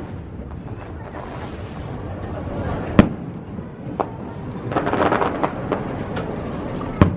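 Aerial fireworks going off: three sharp bangs, the loudest about three seconds in, with a burst of dense crackling in between.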